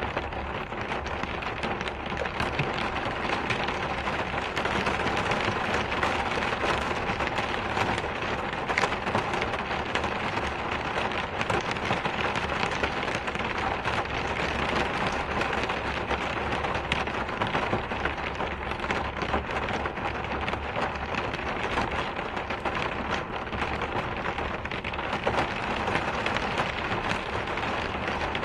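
Steady rain falling, a constant hiss dense with the patter of individual drops.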